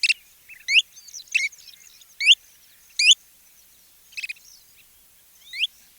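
Kentish plover calling: a series of about seven short, sharply rising whistled notes, spaced roughly a second apart.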